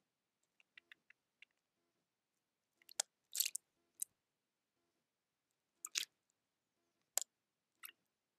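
Small birds pecking and cracking seed at a feeder: irregular sharp taps and crunches, a few faint ones at first and louder ones about three seconds in and again near six, seven and eight seconds.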